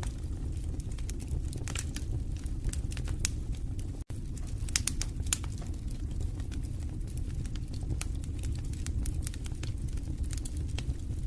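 Wood fire crackling in a fireplace: a steady low rumble of flames with frequent sharp pops and snaps from the burning logs, broken by a split-second gap about four seconds in.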